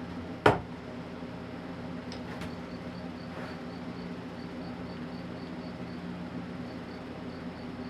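A sharp metallic click about half a second in, then a few light clicks, as the parts and screws of a Miller Falls iron hand plane are handled during reassembly. A steady low hum and a faint, evenly spaced high ticking run underneath.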